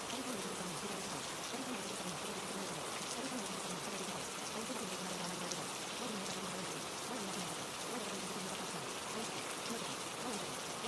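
Steady rain, a dense even hiss of falling drops, with a faint low voice murmuring beneath it, too quiet to make out.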